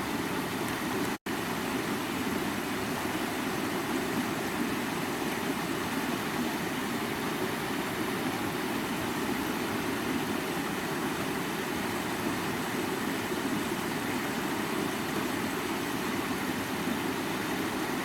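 Stream water flowing steadily, a constant noise without any pattern, which cuts out for an instant about a second in.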